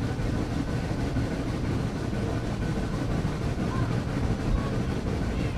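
Steady rumble of a moving excursion train running on the track.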